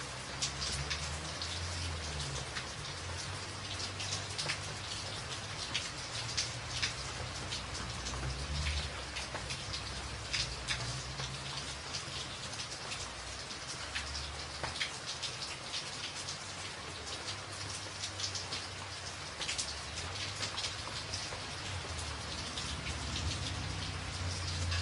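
Steady rain drumming on a tin roof, a dense hiss full of sharp individual drop hits, over a low rumble.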